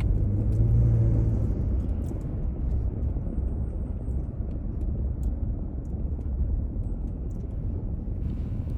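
A car driving, with a steady low road rumble; a low engine hum is a little louder in the first second or two.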